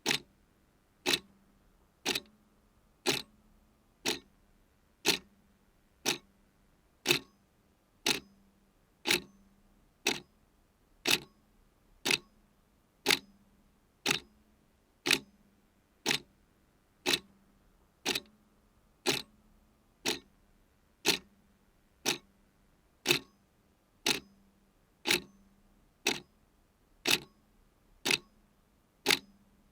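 Clock ticking steadily, about one tick a second, with louder and softer ticks alternating in a tick-tock pattern.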